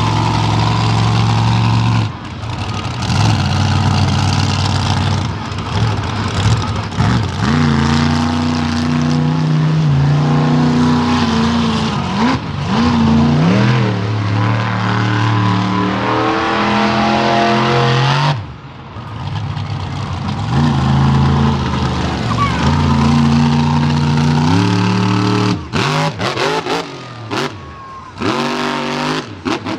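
Monster truck engine revving hard, its pitch climbing, holding and dropping again and again as the truck is driven through its moves. It briefly backs off about eighteen seconds in and cuts in and out near the end.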